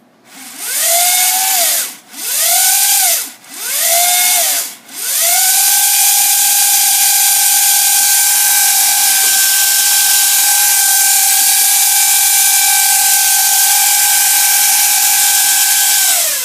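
Brushed DC motors fitted with ceramic bypass capacitors against commutator noise, whining as they are driven: three short runs that rise and fall in pitch, then a long steady run at speed that winds down near the end.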